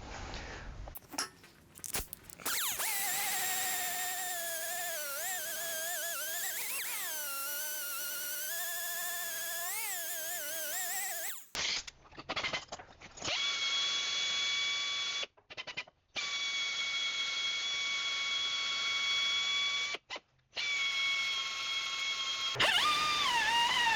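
Electric wire wheel motor whining, its pitch dipping and wobbling as a part is pressed against the brush to clean it. It is heard in several short clips that cut abruptly, the middle one holding a steadier, even whine.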